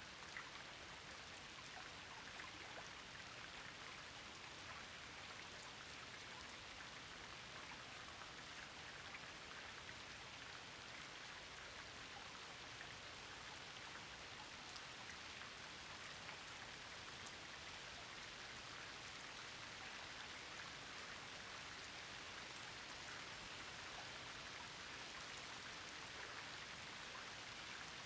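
Steady rain falling: an even hiss of rain with many small drop ticks, unchanging throughout.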